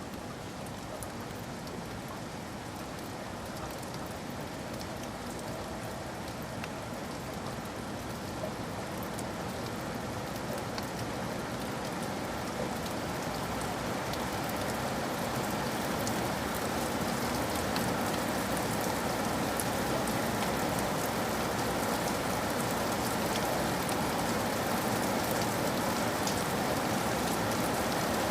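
Steady rain falling, growing gradually louder, with scattered fine drop ticks over a dense hiss.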